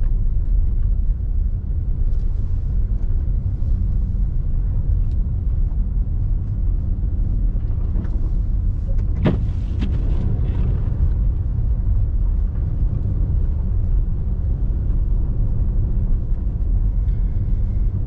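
Steady low rumble of a car driving on snowy streets, heard from inside the cabin: engine and tyre noise. A single sharp click sounds about nine seconds in.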